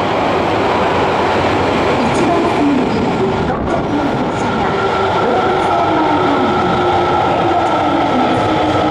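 Subway train moving along the station platform: steady wheel-and-rail noise with the electric traction motors whining in several tones that glide up and down in pitch.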